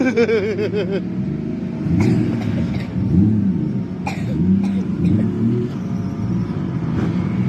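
Drift car engine idling and being blipped a few times, revs rising and falling, with a couple of sharp clicks.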